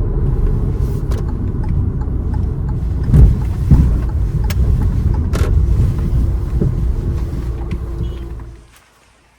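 Car driving along a road, a steady low rumble of engine and tyres with two louder jolts about three seconds in. The rumble fades out shortly before the end.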